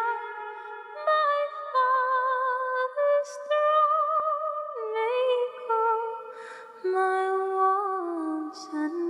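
A cappella hymn singing: several voices in harmony, holding notes with vibrato and moving to a new chord every second or so.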